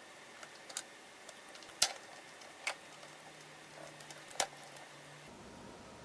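A handful of small, sharp metallic clicks and ticks at irregular intervals, from sterling silver jump rings and steel jewelry pliers being handled while the chain links are assembled. The loudest clicks come about two seconds in and again after about four seconds.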